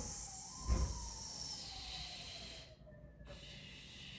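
A person breathing out in a long hissing 'S' sound, part of diaphragm breathing training; it breaks off just under three seconds in and another hissing breath follows. A soft low thump near the start is the loudest moment.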